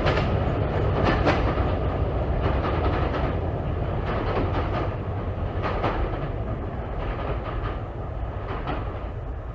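A train running along the track, wheels clicking over rail joints above a steady low rumble that slowly fades.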